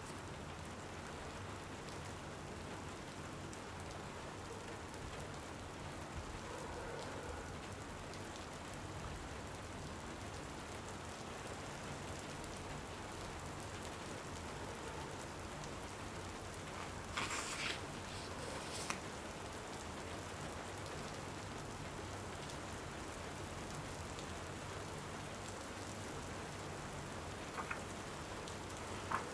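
Steady rain falling. A short burst of crackly noise comes about two-thirds of the way through, and a couple of light ticks near the end.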